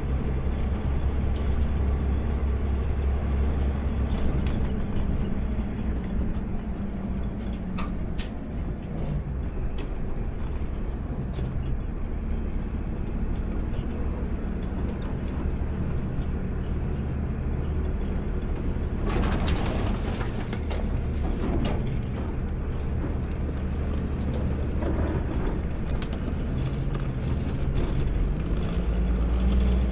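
Diesel engine of an automated sideload garbage truck running, heard from the cab with a steady low drone. A brief rush of noise comes about two-thirds of the way through. Near the end the engine pitch rises as it revs up.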